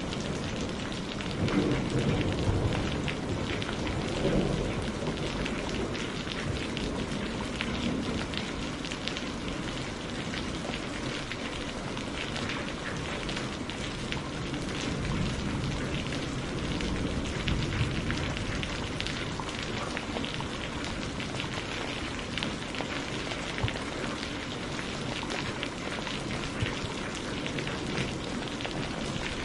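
Steady rain falling on a surface, a dense patter of drops, with a low rumble swelling for a few seconds near the start.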